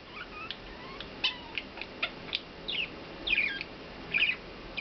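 Budgerigar chirping: a string of short, high chirps, many sliding down in pitch, coming closer together in the second half.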